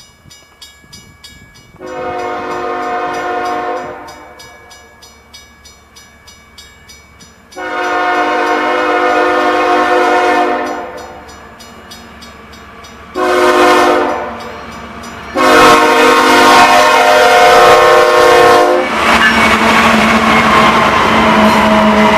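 Freight locomotive horn sounding the grade-crossing signal: long, long, short, long, each blast a chord of several steady tones, with a crossing bell dinging rapidly in the gaps. The last blast runs straight into the loud, steady rumble of the lead locomotives passing close by.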